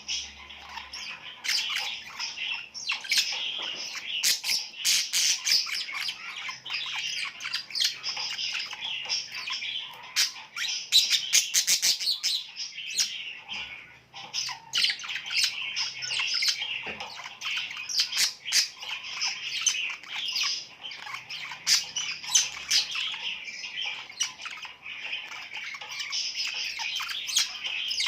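A flock of small birds chirping and squawking together: a dense, continuous chorus of short, overlapping calls.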